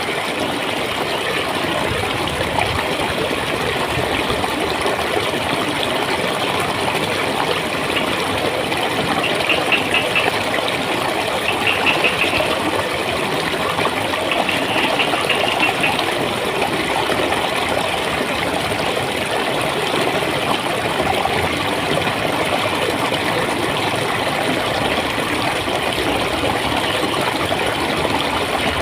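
Clear running water flowing and gurgling steadily, with a few brief high fluttering sounds on top about ten to sixteen seconds in.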